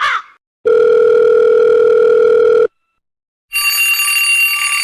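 Telephone sound effects: a steady dial-tone-like beep lasting about two seconds, a short gap, then a steady ringing tone starting near the end.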